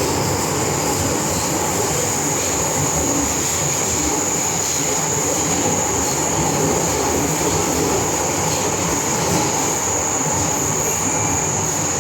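Inside a moving MTR M-train on the Island Line: steady running noise of the train under way, with a steady high-pitched whine over it.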